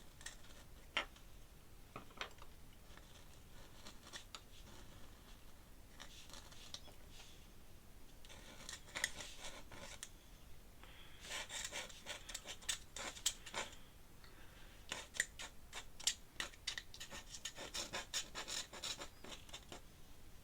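Metal dip-pen nib scratching across paper in runs of short, quick strokes with pauses between. The nib is dragging and scratching because it is running dry of ink.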